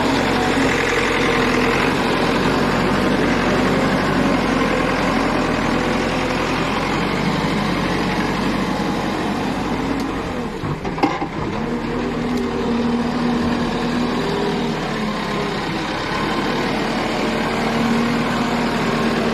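A large vehicle engine running steadily, with a single sharp knock about eleven seconds in.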